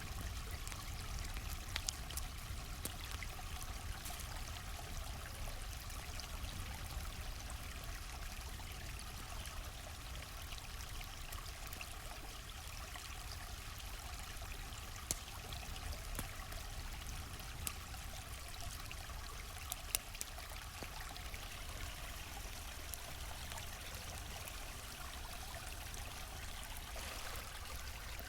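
A stream running steadily, with a crackling wood campfire giving occasional sharp pops, the loudest about 15 and 20 seconds in.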